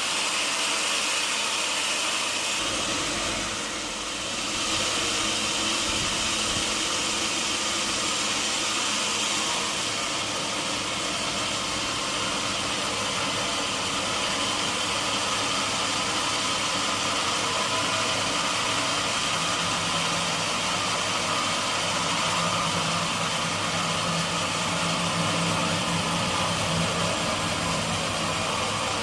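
Sawmill machinery running steadily with a continuous motor-and-saw noise, dipping briefly about four seconds in.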